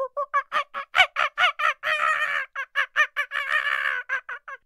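Fowl-like bird calling in short, rapid repeated notes, about six or seven a second, with two stretches of denser, overlapping calling as from more than one bird. It cuts off suddenly near the end.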